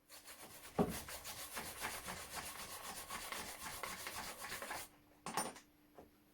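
Rough, rasping scraping rubbed back and forth for about five seconds, with a sharp knock near the start and another knock shortly after the scraping stops.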